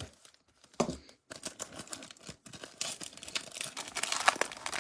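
A Bowman Platinum baseball card pack being torn open by gloved fingers, its wrapper crinkling and crackling, with a short thump about a second in; the crackle grows denser toward the end.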